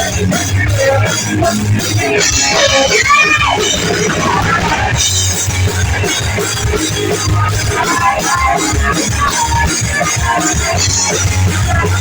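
Live rock band playing loud: electric guitars, bass and a drum kit in full flow, with a bending guitar note a few seconds in.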